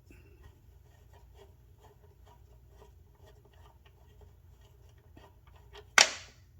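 Faint small clicks and rubbing of hand work at a lawn mower carburetor as the bowl bolt is worked out, then one sharp knock about six seconds in.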